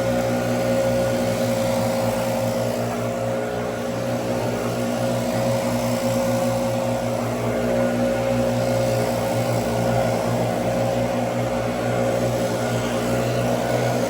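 An engine running at a steady, unchanging speed, with no let-up.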